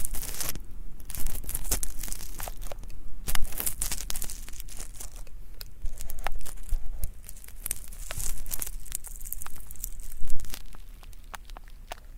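Ear pick scraping at stuck earwax right against an ear microphone: close, crackly scratching and crinkling in irregular strokes, with the loudest scrape about ten seconds in.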